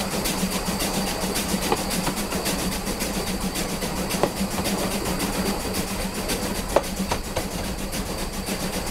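Steam train rolling along the track: a steady running noise with a low hum and a fast, even ticking, broken by a few sharper wheel-on-rail clicks, the loudest about two-thirds of the way in.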